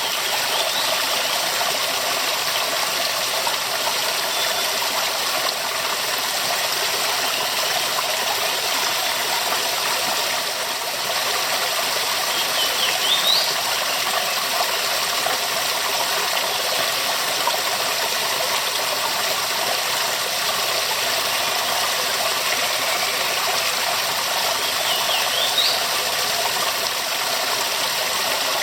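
Waterfall: a steady, dense rush of falling water. Twice, about halfway through and again near the end, a short high rising chirp sounds over it.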